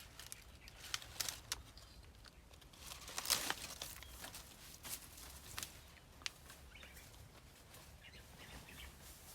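Scattered rustling and sharp clicks, with a louder rustle about three seconds in and a few faint bird chirps late on.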